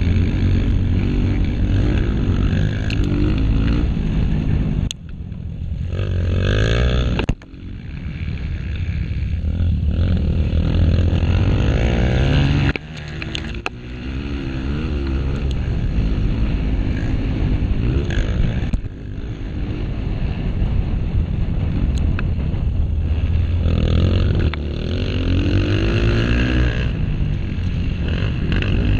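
Honda CRF230 dirt bike's single-cylinder four-stroke engine racing hard, its pitch climbing and falling as the rider works the throttle. The throttle is chopped sharply about five times and the engine then pulls back up.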